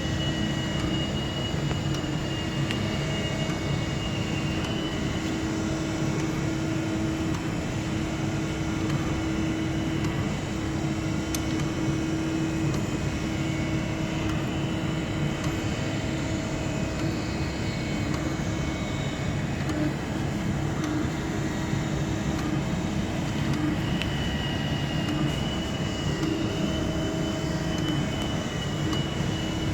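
Harig 6" x 12" auto step surface grinder running steadily under power, its spindle and hydraulics humming while the table reciprocates on the automatic cycle.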